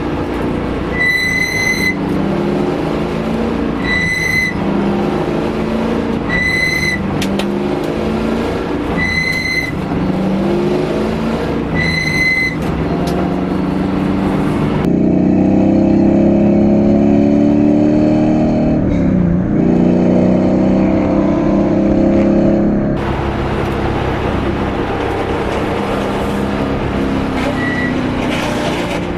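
LS1 V8 in a BMW E30 race car running hard on track, heard from onboard, its pitch rising and falling through the gears. A short high beep sounds five times, about every two and a half to three seconds, in the first half. From about 15 to 23 seconds the engine is louder and duller.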